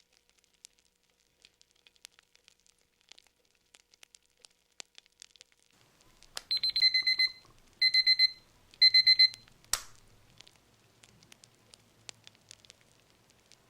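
Digital Pomodoro timer alarm beeping in three quick bursts of rapid high-pitched beeps, marking the end of a 25-minute work session, followed by a single sharp click. Faint fire crackling runs beneath.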